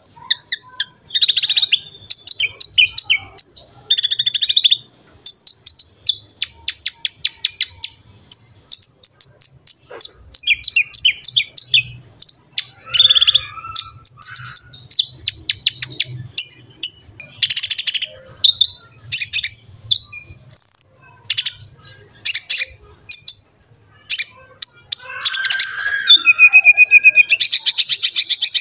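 Kolibri ninja (konin), a small sunbird, singing at full pitch: a steady run of high, rapid chirps broken by fast trilled bursts of repeated notes.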